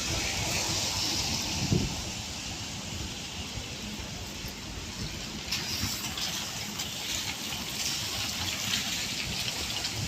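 Road traffic on a wet street: tyres hissing on the rain-soaked road as vehicles pass, over a low engine rumble, with a brief thump about two seconds in.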